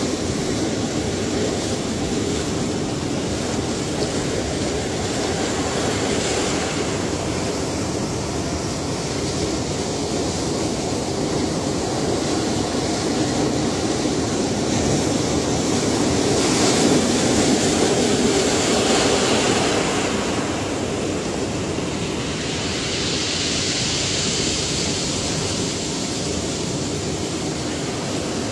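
Ocean waves: a continuous wash of surf with slow swells, the loudest surge about halfway through and a brighter hiss of foam a few seconds later.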